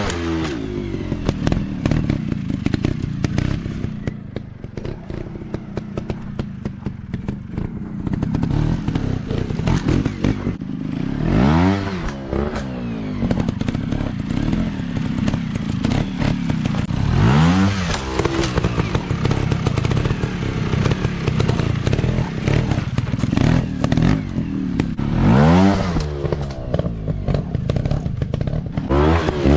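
Off-road dirt bike engine running at low revs, revved up and back down in several bursts: at the start and about 11, 17 and 25 seconds in. Short clattering knocks run throughout.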